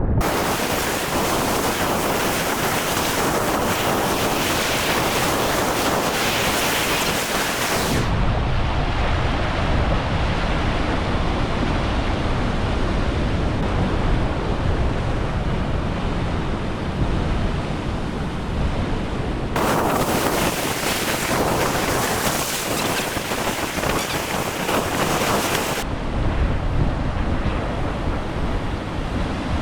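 Ocean waves surging and breaking, with wind rumbling on the microphone. The sound changes abruptly three times, the wind rumble heavier in some stretches than others.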